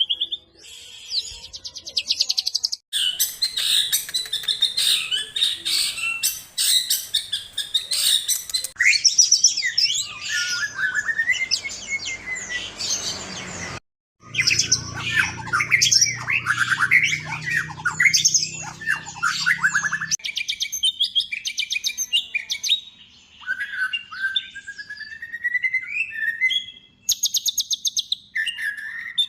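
White-rumped shama (murai batu) singing a loud, varied song of rapid whistles, trills and chattering phrases, spliced from several recordings with abrupt cuts. A faint low hum lies under part of the middle stretch.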